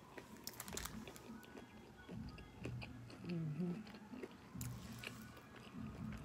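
A person chewing a mouthful of cheeseburger with soft mouth clicks and squelches, and a short hummed murmur about three seconds in.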